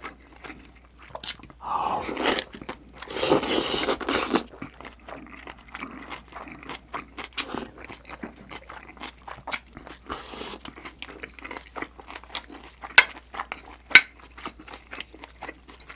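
Close-miked eating: crunching and chewing with many small mouth clicks. A louder, noisier stretch comes about two to four seconds in, and two sharp clicks come near the end.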